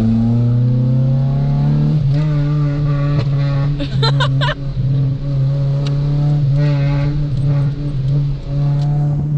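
Straight-piped Honda Civic exhaust heard from inside the cabin while driving, the leak fixed. The engine note falls over the first couple of seconds, then holds steady.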